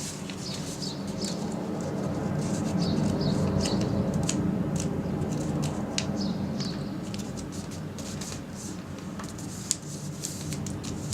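Paper being folded and creased by hand, with short scattered rustles and crinkles, over a steady low background hum.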